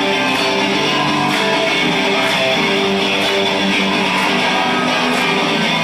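Live rock band playing an instrumental passage between sung lines: strummed guitars with bass and drums.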